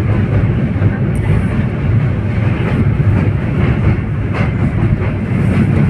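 Train running on the rails: a steady loud rumble with a few sharp knocks from the wheels.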